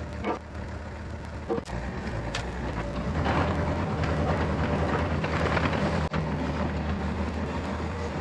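Yanmar ViO50 mini excavator's diesel engine running steadily, getting louder about three seconds in, with a few sharp knocks in the first two and a half seconds.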